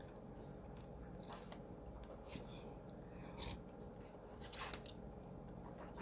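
A person chewing and biting food close to the microphone, faint, with a few short crunchy bites.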